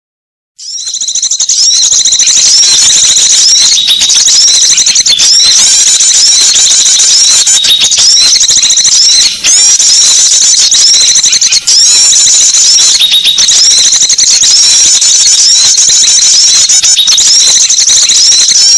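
Bird-lure recording of small songbirds chirping and twittering in a loud, unbroken, high-pitched chatter, starting about half a second in, with a few very short breaks.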